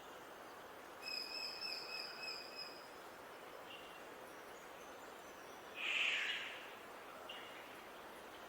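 Wild songbirds calling over a steady outdoor hiss. About a second in comes a held, even whistled note lasting about a second and a half, then a few short high chirps, and a louder, harsher call about six seconds in.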